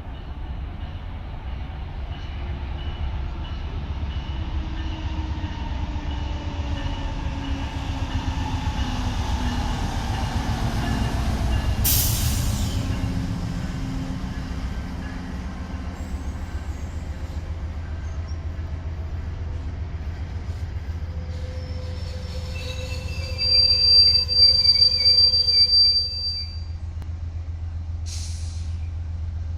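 A train rolling past with a steady low rumble, and a short sharp clank about twelve seconds in. Near the end a high-pitched steel wheel squeal rises out of it for about three seconds, then stops.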